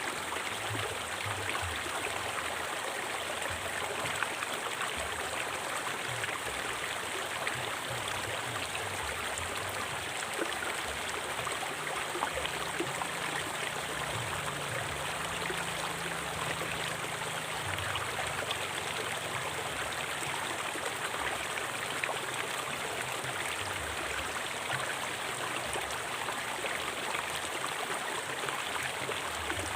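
River water flowing steadily over rocks, an even rushing and gurgling without pause.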